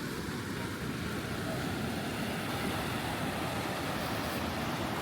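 Steady rushing of ocean surf mixed with wind rumbling on the microphone.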